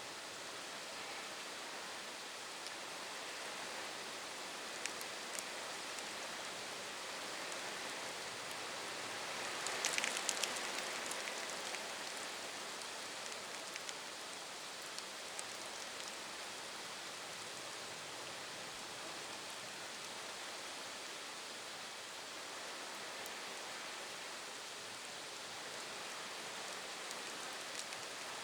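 Steady heavy rain as an even hiss, with scattered drop-like ticks and a louder cluster of sharp ticks about ten seconds in.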